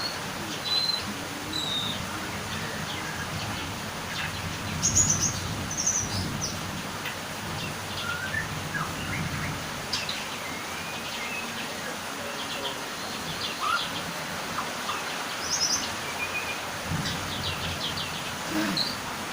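Songbirds calling: many short, high chirps and quick slurred notes scattered throughout, over a steady background hiss.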